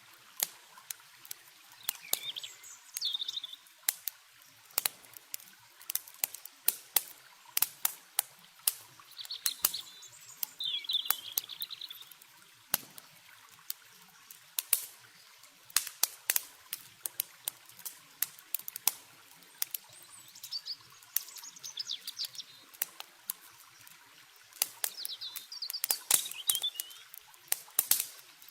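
Campfire crackling with frequent sharp pops. A songbird sings four short warbling phrases, and a faint steady water noise runs underneath.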